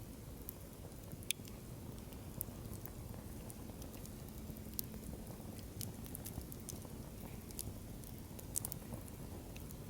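Firewood campfire crackling: scattered sharp pops and snaps over a steady low rumble of the flames.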